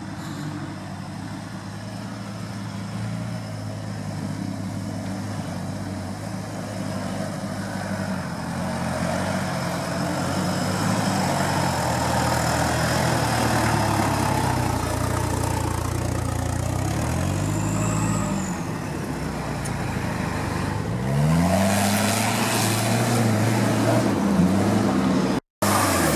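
Toyota Land Cruiser engine labouring up a muddy off-road track, growing steadily louder as it approaches. In the last few seconds the revs rise and fall several times as the throttle is worked.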